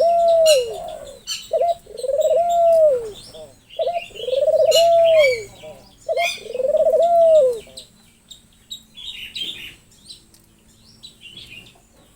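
A bird calling with four low, arched hooting notes about a second and a half apart, each led by a short note. The calls stop about 8 s in, and fainter high chirps go on throughout.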